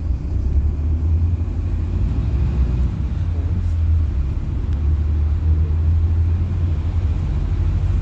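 Steady low rumble of a PAZ-4234-04 bus under way, engine and road noise heard from inside the cabin.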